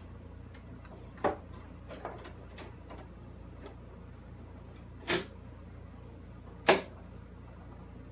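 Three sharp knocks and a few lighter clicks from hand tools and parts being handled while a mower's side panel is refitted, over a steady low hum.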